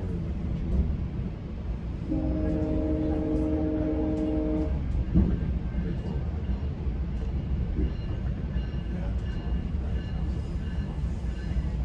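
GO train's horn sounding one steady chord for about two and a half seconds, heard from inside the coach, over the steady rumble of the train running on the rails.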